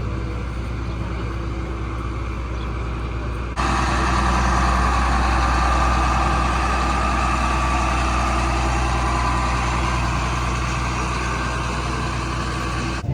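Steady vehicle engine and road noise with no speech. About three and a half seconds in it jumps suddenly to a louder, fuller rumble, which then holds steady.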